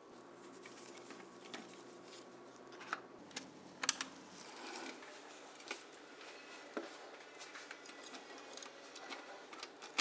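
Faint, irregular small clicks and taps of a diecast model car's parts being handled and fitted by hand, with a louder double click about four seconds in and a sharp click at the end.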